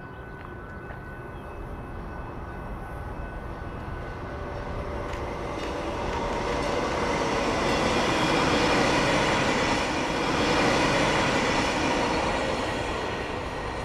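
Stadler FLIRT diesel multiple unit rail car approaching and passing by, engine and wheels on the rails. It grows louder to its loudest around nine to eleven seconds in, then fades.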